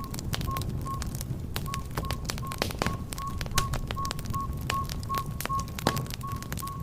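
Wood fire crackling, with many sharp irregular pops over a low steady rush of flames. A faint short high beep repeats evenly about two or three times a second.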